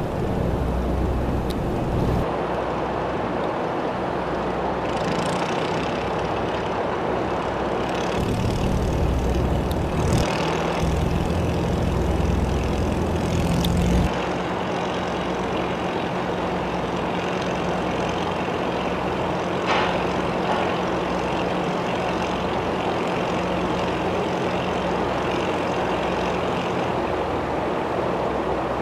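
Enclosed lifeboat's diesel engine running steadily, driving the sprinkler pump, with the constant hiss of water spray over the boat. The low rumble is heavier in the first half and eases about halfway through, leaving a steady engine hum.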